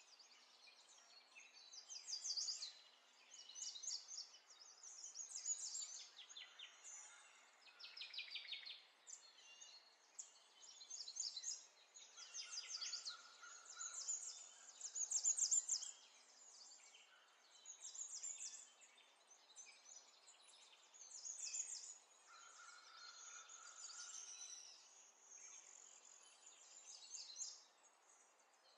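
Faint bird song: short, rapid trilling phrases repeated every couple of seconds, some falling in pitch.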